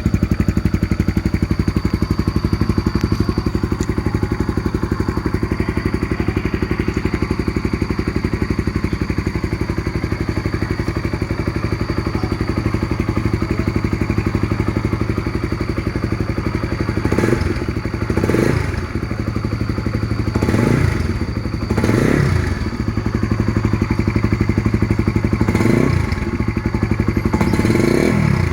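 Honda CB150R's single-cylinder engine running through a Tirev aftermarket exhaust, idling steadily with a fast even putter, then blipped several times in the last third, each rev rising sharply and falling straight back to idle.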